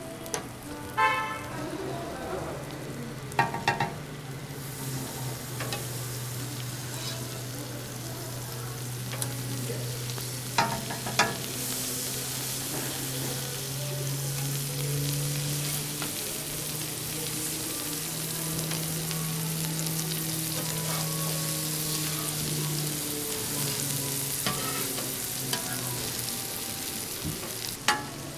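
Food frying on a hot street-toast griddle, a steady sizzle that swells about four seconds in and grows louder again around eleven seconds, over a low steady hum. A few sharp clinks come near the start, around ten seconds in and at the very end.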